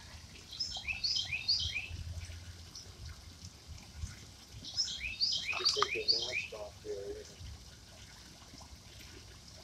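A songbird singing twice: each phrase is a quick run of three or four high chirps, each one falling in pitch, about a second and a half long. The first phrase comes near the start and the second about five seconds in.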